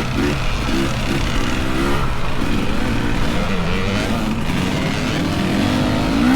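Dirt bike engine being ridden along trail, revving up and down with the pitch rising and falling repeatedly as the throttle is worked.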